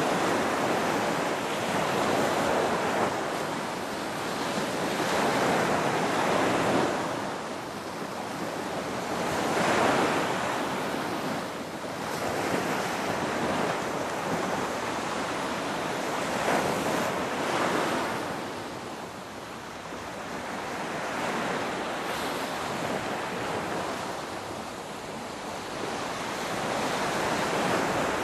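Ocean waves breaking and washing in, a continuous hiss of surf that swells and fades every few seconds, with some wind.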